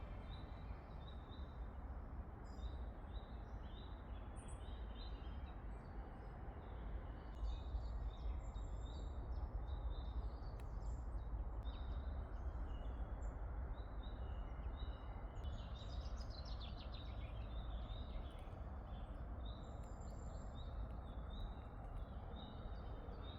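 Outdoor garden ambience: small birds chirping in short high calls over a steady low rumble and hiss.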